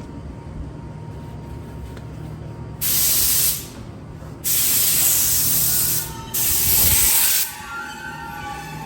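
Car wash tunnel spray nozzles hissing in three sharp on-off bursts over a steady low machinery hum. A faint wavering whine comes in near the end.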